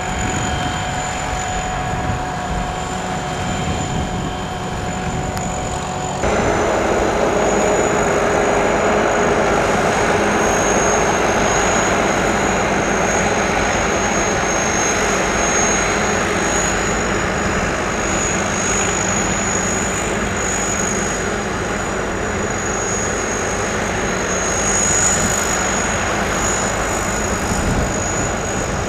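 Sakpattana SS-200 mini corn combine harvester running: engine and harvesting machinery at a steady drone with a constant high whine. It becomes abruptly louder about six seconds in.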